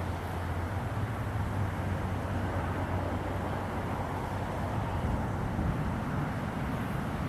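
Steady outdoor noise of wind in a snowstorm over a flowing river, with a low steady rumble underneath.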